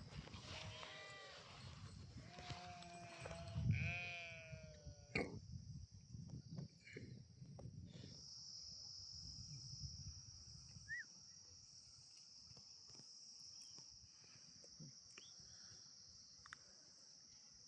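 Small livestock bleating: three wavering calls in the first five seconds, the last one the loudest. A steady high-pitched drone runs underneath.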